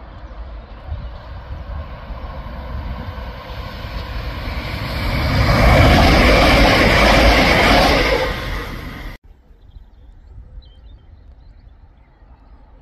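Diesel multiple unit passenger train approaching and passing close by at speed: a rushing mix of engine and wheel noise that grows to a loud peak and then cuts off abruptly about nine seconds in. After the cut there is only a quiet background with a few faint chirps.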